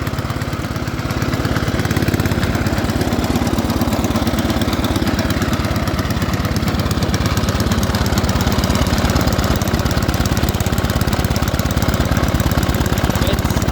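Ariens ST504 snowblower's 5 hp Tecumseh single-cylinder engine running steadily on choke at half throttle just after a cold start.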